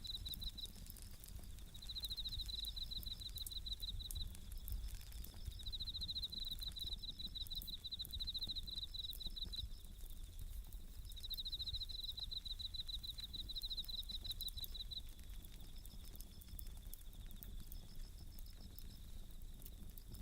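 Japanese bell crickets (suzumushi) chirping in repeated high, pulsed phrases of one to two seconds with short gaps, over the faint, sparse crackle of a wood campfire.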